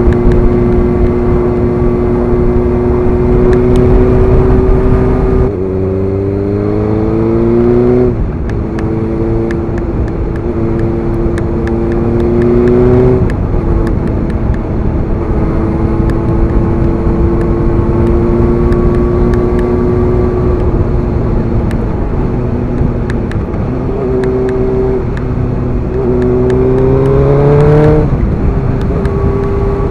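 Suzuki GSX-R sport bike's inline-four engine running under way. Its pitch climbs and drops back at a gear change about eight seconds in and again near the end. Wind rushes over the microphone, heaviest in the first few seconds.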